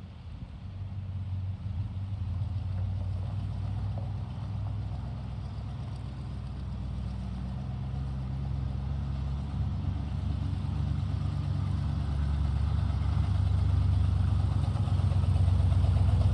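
1974 GMC 6500 truck's engine running with a steady low drone, growing louder over the last few seconds.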